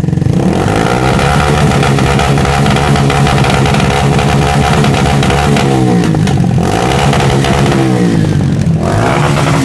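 Engine revved repeatedly through a loud exhaust. The pitch climbs just after the start, then falls and rises several times, with short drops about six and a half and nine seconds in.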